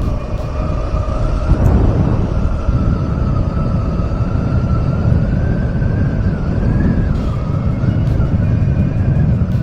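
A motorcycle riding on the road, heard through the rider's helmet microphone: a steady rumble of engine and wind, with a thin high whine that slowly rises and falls.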